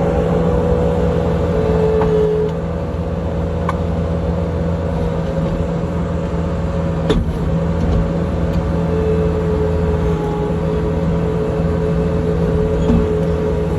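Skid steer engine running steadily while working, its pitch dipping slightly about two seconds in, with a single short clank about seven seconds in.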